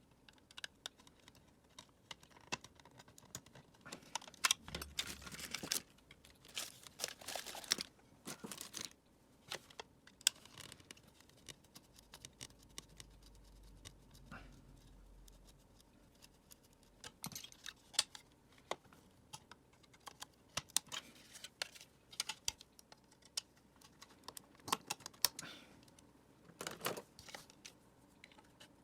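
Irregular small clicks and taps, with a few longer scraping, rasping stretches, from the plastic housing and parts of a Dyson vacuum cleaner being handled and worked apart. The longer scrapes come about five and eight seconds in and again near the end.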